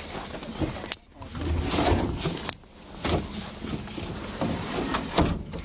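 Irregular clothing rustle and handling noise rubbing against a body-worn camera microphone during a pat-down search.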